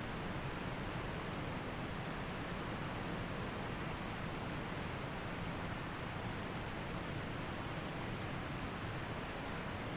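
Waterfall and creek water rushing, a steady, even sound of falling and flowing water.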